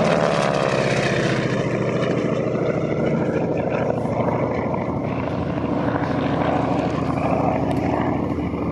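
Propeller aerobatic planes flying past in formation. Their engine note falls in pitch as they go by in the first second, then settles into a steady drone.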